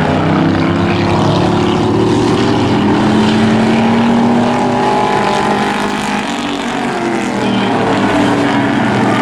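Several hobby-class race trucks running laps on a short oval. Their overlapping engine notes rise and fall as they go through the turns and down the straights.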